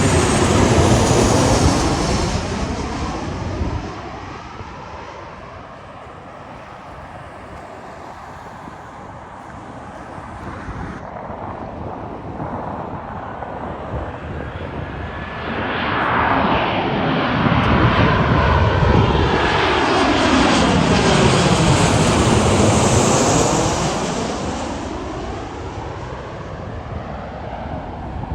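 Aircraft engines passing close by: one plane fades away over the first few seconds, then another grows loud about halfway through, passes, and fades near the end.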